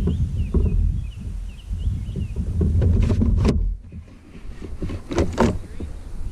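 Low rumble of wind buffeting the microphone on a kayak, dropping away briefly about four seconds in, with a few short sharp knocks or splashes just past halfway and again near the end, and faint bird chirps at the start.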